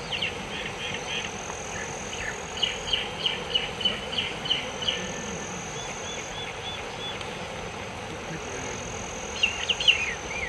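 Outdoor ambience: a bird calling in runs of quick, short chirps, several to a second, over a steady high insect drone.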